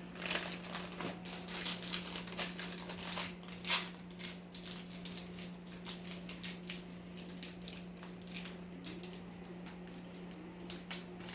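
Irregular light clicks and small rattles from small hard objects being handled, with one sharper click just under four seconds in, over a steady low electrical hum.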